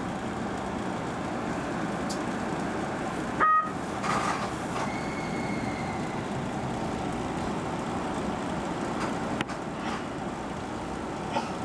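Keio Inokashira Line 1000-series electric train running, heard from the driver's cab as a steady rumble, with one short two-pitch horn toot about three and a half seconds in.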